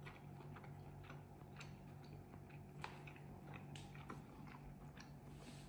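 Faint chewing of a mouthful of steak, with soft irregular mouth clicks over a low steady room hum.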